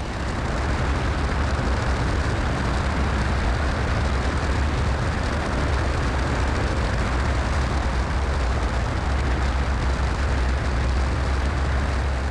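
Steady cockpit noise inside a Cessna 172SP on final approach: a wide rush of airflow over a low rumble from the engine.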